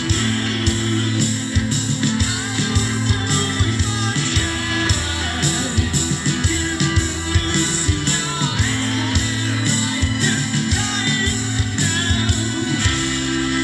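A rock band playing loud, live: electric guitars, bass and drum kit, with a steady beat of drum hits under held bass notes.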